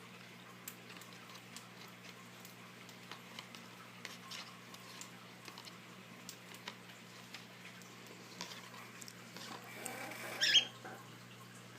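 Pet cockatiel making scattered light clicks and scratches, then one short, loud, high call about ten and a half seconds in.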